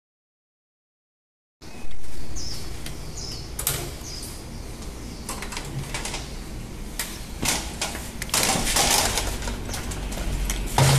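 About a second and a half of silence, then background noise with several short, falling bird chirps and scattered sharp clicks and taps.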